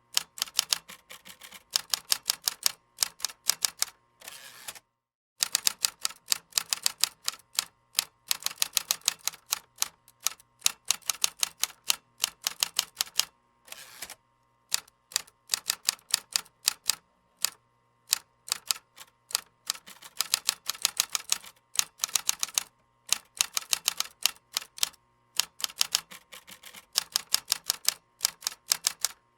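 Typing on a keyboard: sharp keystroke clicks in fast runs of several per second, broken by short pauses, the longest about five seconds in.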